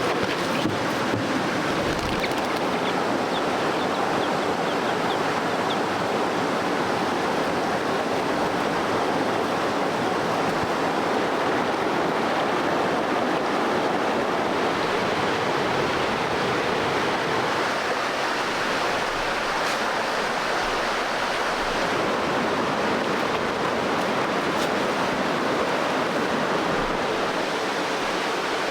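Steady rush of flowing water, an even noise that holds at one level throughout.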